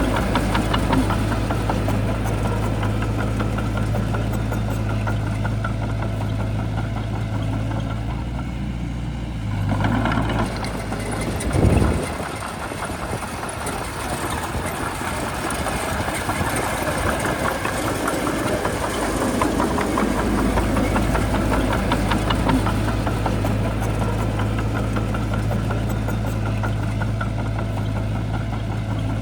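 Shantui bulldozer's diesel engine running with a steady low drone and clatter. About twelve seconds in there is a brief loud surge, after which the low steady note drops away for several seconds and then comes back.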